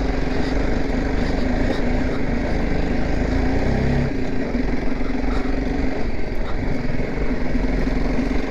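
BMW G 310 GS's single-cylinder engine running steadily as the motorcycle climbs a steep hill, with road and wind noise; the engine note dips briefly about halfway through.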